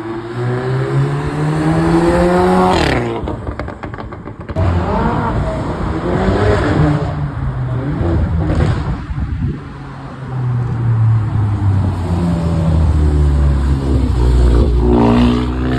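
Cars accelerating hard one after another, each engine revving up with a rising note. A quick burst of crackling comes after the first pull, about three seconds in.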